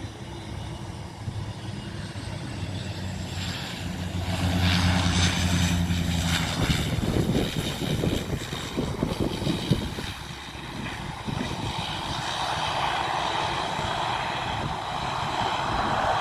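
Aircraft engines running: a low steady drone that stops about six and a half seconds in, then louder rushing engine noise with steady higher tones over it.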